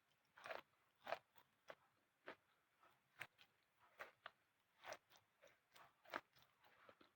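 Faint, close-miked bites and chewing of something dry and crunchy, a string of short separate crunches about one or two a second.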